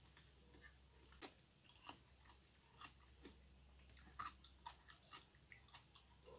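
Close-miked chewing of raw pork liver: quiet, wet mouth clicks coming irregularly several times a second, the loudest about four seconds in.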